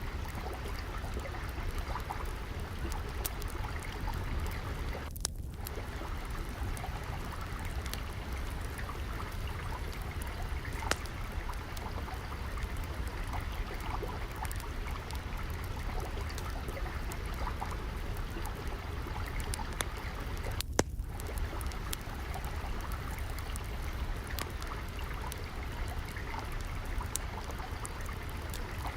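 Steadily flowing, trickling water with a low rumble, overlaid with the irregular crackle of a wood fire. A few louder pops stand out, around ten seconds in and again about twenty seconds in.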